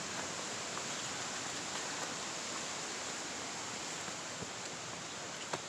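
Steady rush of a waterfall and its creek, an even hiss of falling water, with a faint single click near the end.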